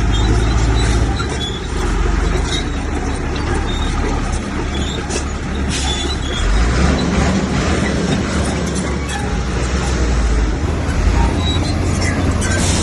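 Komatsu crawler bulldozer's diesel engine running under load, its note shifting a few times, with rapid metallic clanking and squeaking from the steel tracks.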